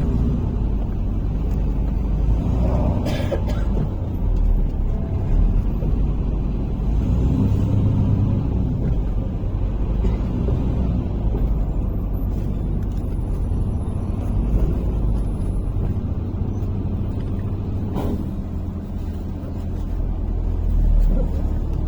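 MAZ-103 city bus under way, heard from inside the cabin: a steady low engine and road drone. A short sharp sound cuts through about three seconds in and again about eighteen seconds in.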